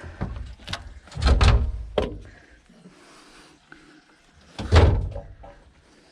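A few knocks and heavy thuds, like a door or lid being shut, the loudest about a second and a half in and again near five seconds.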